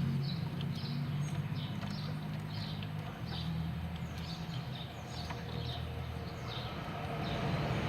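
A small bird chirping over and over, about two short chirps a second, over a steady low rumble.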